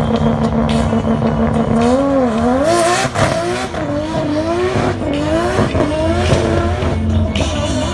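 Toyota 1JZ straight-six in an RX7 drift car doing a burnout: held at steady high revs for about two seconds, then revved up and down repeatedly, with the spinning rear tyres squealing.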